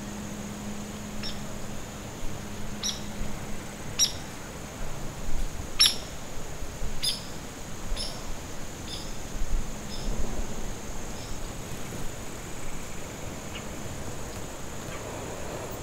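A bird calling a series of short, sharp, high notes, about one a second for some ten seconds, fading toward the end.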